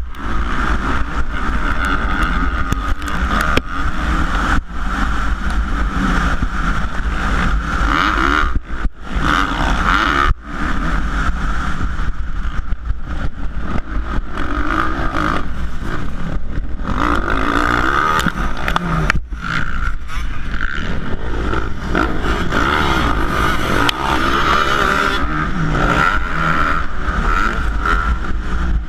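450-class motocross bike engine revving hard under race load, its pitch rising and falling without a break, with three short dips where the throttle is chopped.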